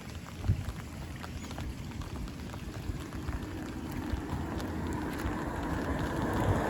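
Rain falling, with scattered drop ticks and a low rumble on the microphone. There is a single thump about half a second in, and a rushing noise swells steadily over the second half.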